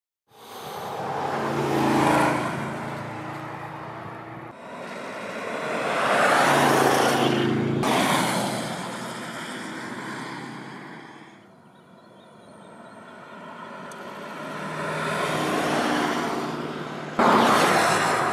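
Land Rover Defender's 5.0-litre supercharged V8 driving past on the road, its engine and exhaust note swelling loud and fading away several times, with sudden jumps in level between passes.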